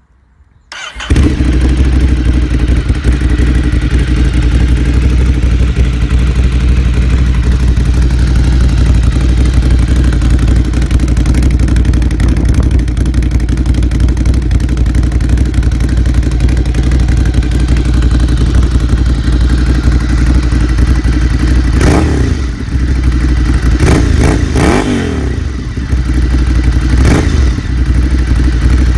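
Ducati Scrambler 800's air-cooled L-twin running through an Arrow titanium exhaust. The sound starts suddenly about a second in and holds a steady idle, then the throttle is blipped in three or four quick revs near the end.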